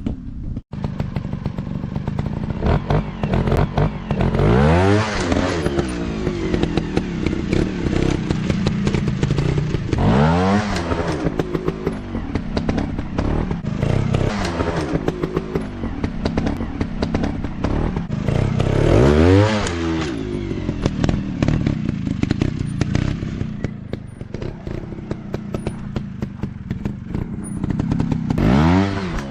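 Off-road motorcycle engines running. Four times, one engine's pitch rises and falls in a sweeping surge, the loudest moments of the stretch.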